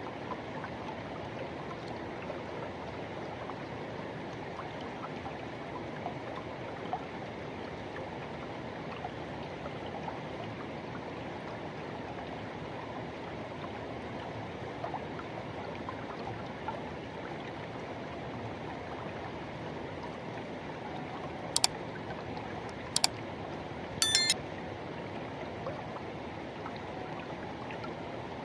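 Forest river water rushing and flowing steadily over rocks. About three-quarters of the way through come three short, sharp high-pitched sounds, the last briefly repeating, louder than the water.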